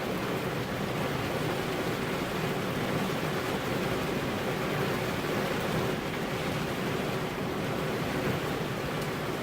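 Steady rainfall, an even hiss with no single drops or thunder standing out.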